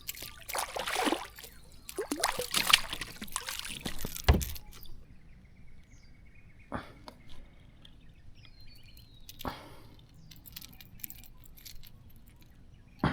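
Water splashing and sloshing against a fishing kayak for the first few seconds, ending in a single thump, then only a few drips and light knocks.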